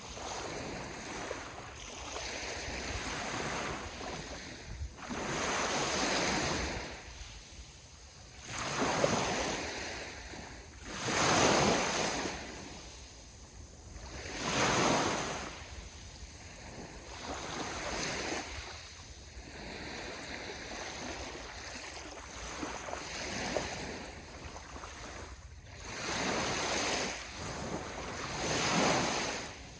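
Ocean waves breaking and washing up on the shore, swelling and falling in surges every few seconds, with a few louder breakers near the middle and again near the end.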